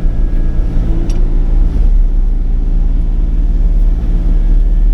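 Sany 35 mini excavator's diesel engine running steadily under load with a loud, low rumble.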